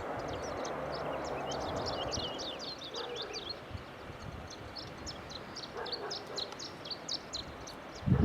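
Small songbirds chirping and twittering continuously, over a steady background noise. A brief low thump comes near the end.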